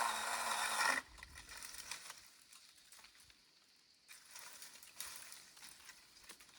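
Ivy and branches rustling and scraping as they are cut and pulled out of an apple tree. A loud rustle fills the first second and stops abruptly, followed by faint crackles and a second, softer rustle about four to six seconds in.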